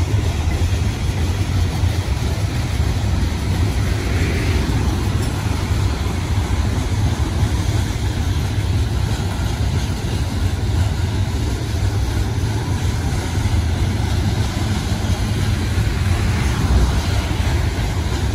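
Loaded CSX coal hopper cars rolling past on the mainline: a steady, unbroken noise of steel wheels on rail, heavy at the low end.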